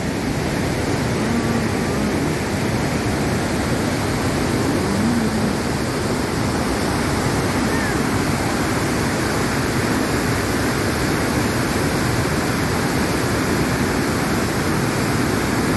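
Iguazu Falls' massive cascades of water pouring down, a loud, steady, unbroken rush of noise.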